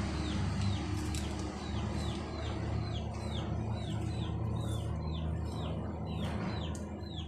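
A bird calling with a short falling chirp, repeated evenly about two and a half times a second, over a steady low hum.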